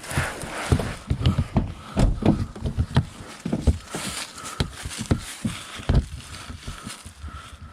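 Irregular knocks, taps and clatter of hand tools against plastic and metal parts while fasteners are pried out of a van's front end.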